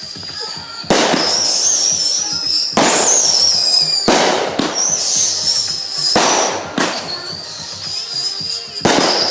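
Consumer fireworks going off: about seven sharp bangs at uneven intervals, a second or two apart. A high wavering whistle-like tone carries on underneath the bangs.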